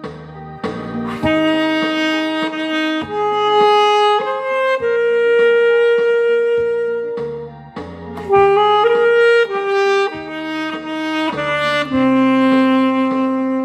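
Alto saxophone playing a melody in long, held notes, with one long sustained note in the middle, over a lower accompaniment line.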